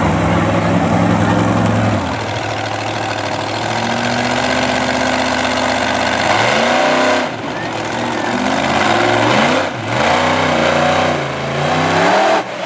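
Monster truck engine running steadily, then revved up and down repeatedly from about the middle on, its pitch climbing and falling.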